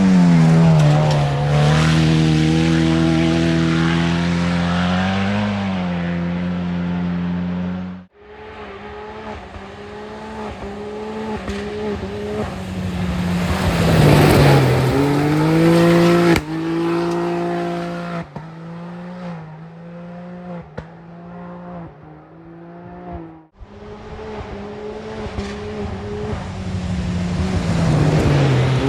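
Rally cars at full speed on a gravel stage, in three separate passes. Each engine rises as the car approaches, peaks loudest with a hiss of gravel spray as it goes by, then falls away through a run of quick gear changes.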